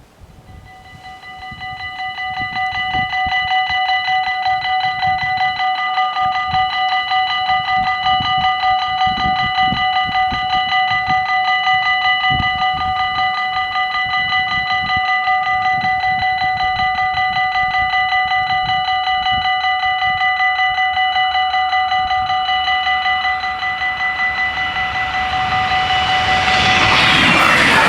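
Dutch automatic level-crossing bells ringing in a fast, continuous ringing as the crossing warns of a train. The ringing builds up over the first few seconds. Near the end, the rushing noise of an approaching Stadler GTW electric train rises and swells as the bells stop.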